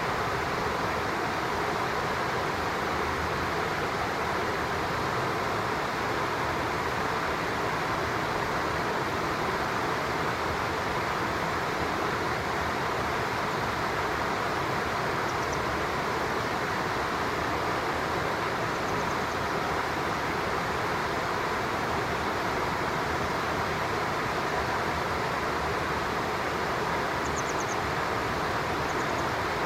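Steady, even rushing of a flowing stream, with a few faint short high chirps around the middle and near the end.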